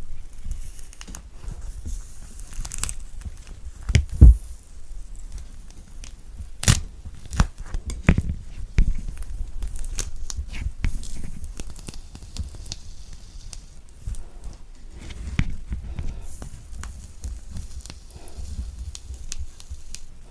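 Thick orange peel being torn away from the fruit by hand: irregular crackly tearing and peeling with handling rumble close to the microphone. A loud thump comes about four seconds in, and a sharp knock a few seconds later.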